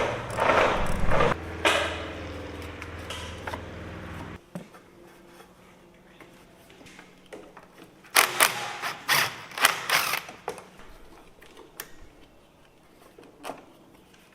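A small power tool runs with a steady hum and stops abruptly about four seconds in. Several seconds later comes a cluster of sharp metallic clinks and clatters, with a few more near the end.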